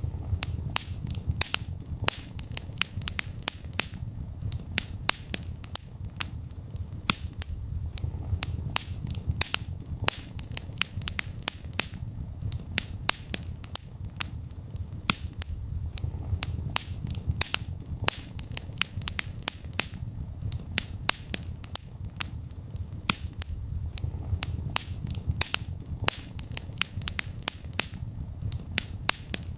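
Wood fire burning in a fireplace, crackling with frequent sharp pops at irregular intervals over a low, steady rumble of the flames.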